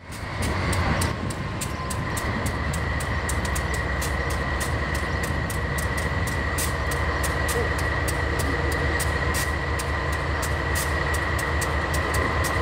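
Diesel-electric freight locomotive rolling slowly in with its train, the engine giving a steady low rumble. From about two seconds in a steady high-pitched squeal from the wheels on the rails sits over it, with frequent sharp clicks.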